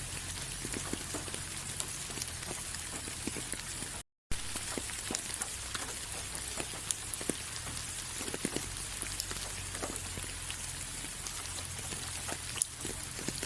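Steady rain, an even hiss with individual drops landing as scattered sharp ticks. About four seconds in, the sound cuts out completely for a fraction of a second and comes back with a click.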